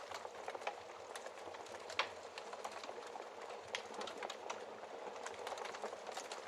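Wood fire crackling: a steady soft hiss of flames with frequent irregular pops and snaps, one sharper pop about two seconds in.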